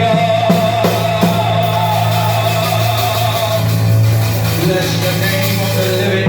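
Live church band music: a steady bass and held keyboard or guitar notes with light drum hits, and some faint singing.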